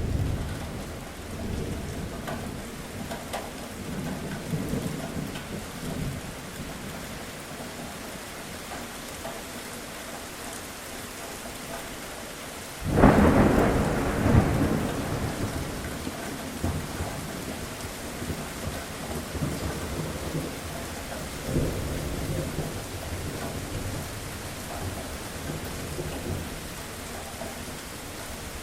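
Thunderstorm: steady rain with rolling thunder. A sudden, loud thunderclap comes about halfway through and rumbles on for a few seconds, with fainter rumbles before and after it.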